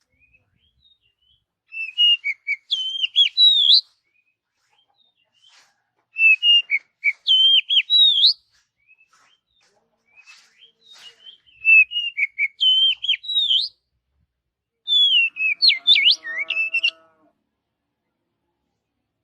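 Oriental magpie-robin (kacer) singing: four short phrases of varied whistled notes, each about two seconds long, with pauses between them.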